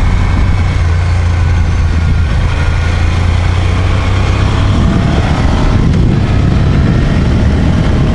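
Moto Guzzi Griso 1200 8V's transverse V-twin running as the motorcycle is ridden along a road, with wind rush over the microphone. The engine note shifts about five seconds in.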